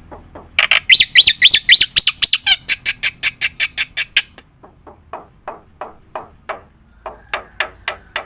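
Black-winged myna (jalak putih) calling in a fast run of loud, harsh repeated notes, about five a second, that turns into softer, falling notes with short gaps about halfway through.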